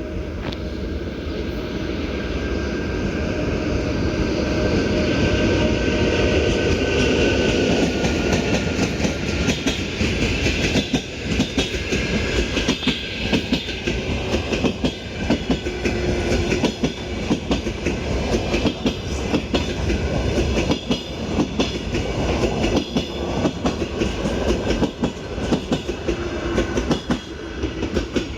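EP1M electric locomotive and passenger train passing at speed. It grows louder with a slowly falling whine as it approaches. Then the wheels clatter over the rail joints in a rapid, even clickety-clack as the carriages go by.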